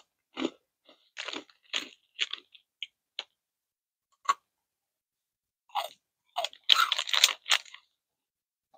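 A thin, crisp, pretzel-like snack stick being bitten and chewed, crunching in irregular bursts, with the heaviest run of crunches near the end.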